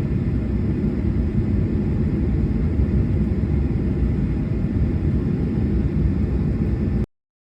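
Steady low rumble of a moving vehicle, cutting off abruptly about seven seconds in.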